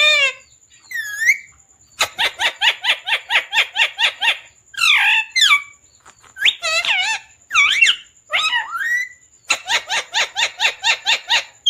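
Pet parrot calling: runs of rapid, evenly repeated chirps, about four a second, alternating with single rising and falling whistled squawks.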